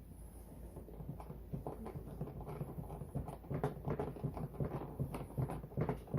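Quick, irregular clicks and knocks of plastic parts of a ride-on toy truck being handled and pushed into place.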